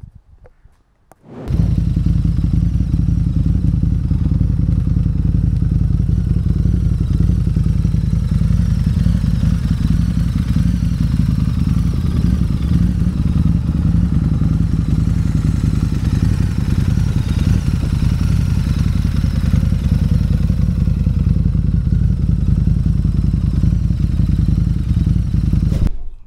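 Harley-Davidson V-Rod Night Rod Special's liquid-cooled V-twin running steadily through an aftermarket Remus exhaust, loud and deep. It starts suddenly about a second and a half in and stops abruptly near the end.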